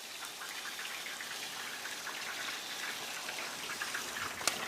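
Country gravy cooking in a cast iron skillet: a soft, steady crackling hiss, with a sharp click near the end.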